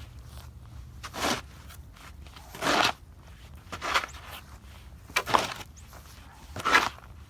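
Snow crunching five times, one every second and a half or so, each crunch short and sharp, over a steady low rumble.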